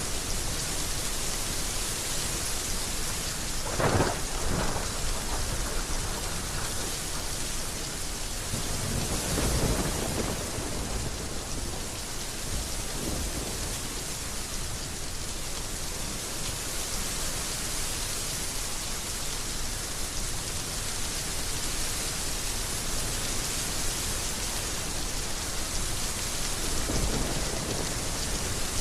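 Heavy rain falling steadily, with a sharp clap of thunder about four seconds in, the loudest moment, followed by lower rumbles of thunder around ten seconds in and again near the end.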